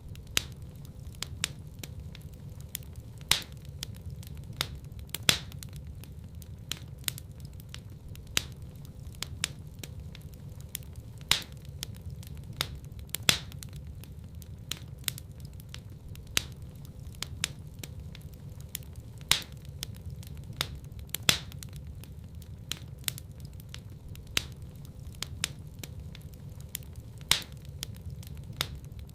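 Wood fire crackling in a fireplace: many sharp pops and snaps over a steady low rumble of flames, with a louder pop every few seconds.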